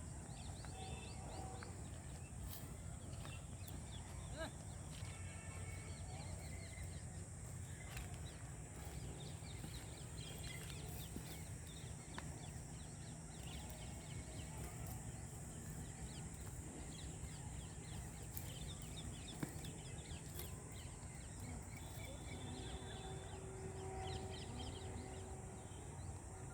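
Rural outdoor ambience: a steady low rumble under a high hiss, with scattered short bird chirps and a couple of distant held calls, one of them near the end.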